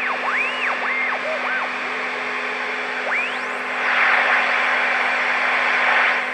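Static hiss from a Marconi 2004 seven-transistor radio (built by Toshiba) under a steady low hum, with whistles gliding up and down in pitch as the radio is tuned across signals during alignment.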